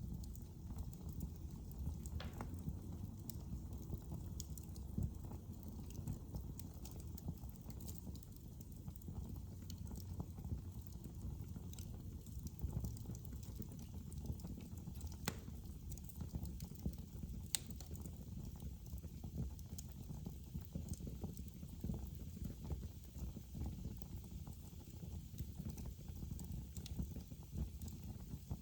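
Fire burning in a fireplace: a continuous dense low crackle with a few sharp pops scattered through it.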